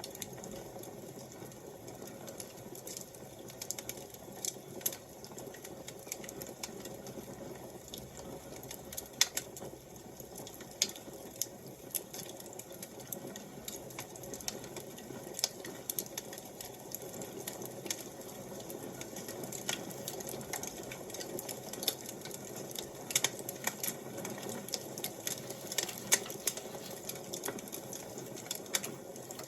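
Wood fire crackling: irregular sharp pops and snaps, a few of them loud, over a steady low rush of burning.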